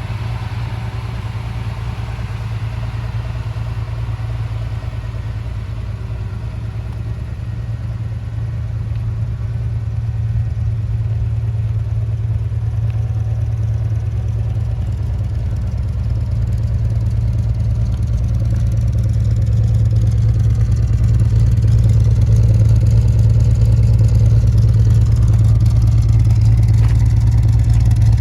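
Modified 1977 Datsun 280Z engine idling steadily after a cold start, with a deep, even exhaust hum that grows gradually louder through the second half.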